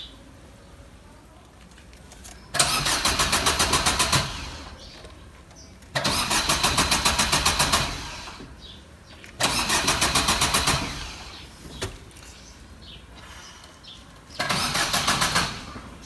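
A car engine being cranked by its starter motor in four separate attempts of about one and a half seconds each, with a quick pulsing rhythm during each attempt. It cranks but does not catch, a no-start that the owner puts down to the car having sat unused for many days.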